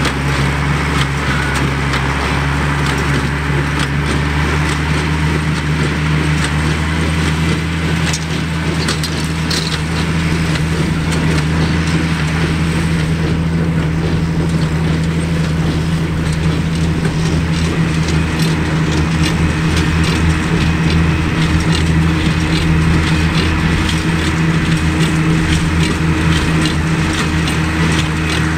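Oliver 770 tractor's six-cylinder engine running steadily under load, powering a New Holland 276 Hayliner small square baler, whose mechanism adds a rapid clatter of knocks over the engine hum.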